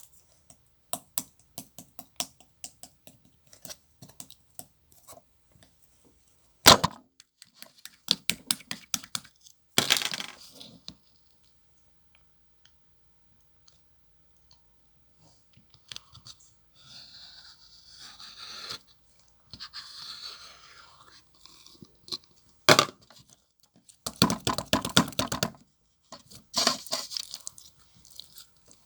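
Close handling noises: scattered sharp clicks and taps, two louder knocks, and several longer crinkly, tearing-like bursts, with quiet gaps between.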